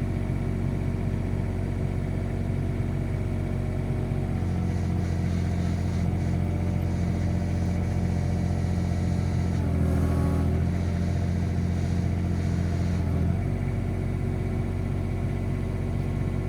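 Komatsu PC16 mini excavator's diesel engine running steadily while the hydraulics are worked. Its note changes as it takes load about four seconds in, shifts again around ten seconds, and eases back after about thirteen seconds.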